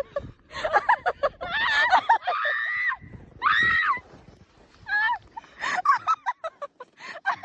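Several people screaming and shouting in short, high-pitched outbursts, with brief quieter gaps between the cries.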